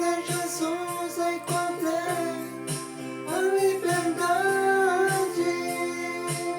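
Music: a Portuguese-language Christian song, with a high voice singing a melody over sustained accompaniment and a steady beat.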